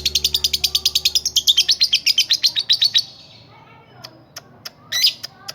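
Lovebird chattering in a rapid run of high chirps, about ten a second, that stops suddenly about three seconds in. After it come a few faint clicks and one short rising call near the end.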